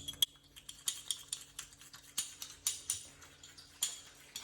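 A teaspoon beating sugar with the first drops of coffee in a cup to make a sweet coffee cream. The spoon clicks and scrapes against the cup in quick, irregular strokes, several a second.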